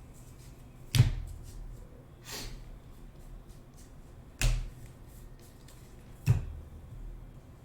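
Trading cards and packs being handled at a table: three sharp taps or slaps, about a second in, past the middle and near the end, with a softer swish between the first two.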